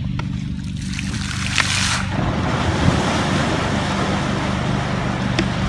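An engine running steadily, under a loud rushing noise that swells about two seconds in.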